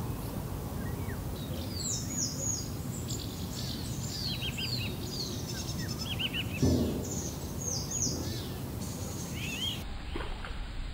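Birds singing outdoors: many short, high, falling whistled notes repeated over several seconds, above a steady low background rumble. A brief louder thump comes about two-thirds of the way through.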